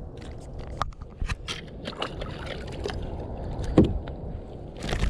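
Scattered clicks and knocks of gear being handled in a kayak, over a steady low rumble, with one sharper knock a little under four seconds in.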